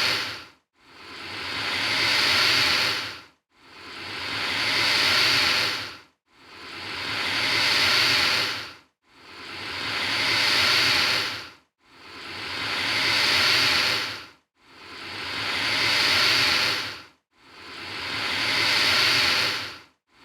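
Alligator hissing again and again, about every three seconds: each hiss swells up and then breaks off sharply, with a brief silence before the next. The hisses are alike in shape, as if the same hiss were repeated.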